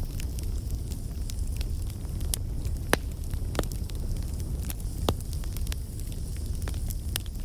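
Bonfire burning: a steady low rumble of flames with frequent sharp crackles and pops, the loudest pops coming about three and five seconds in.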